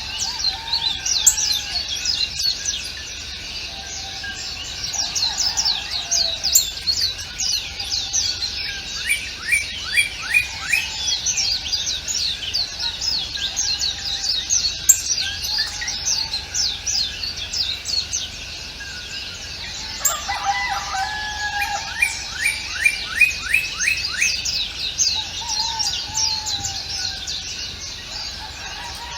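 A chorus of wild songbirds chirping, with many quick, high, falling notes overlapping and a lower warbling call now and then. About twenty seconds in, one bird sings a loud run of rapidly repeated notes.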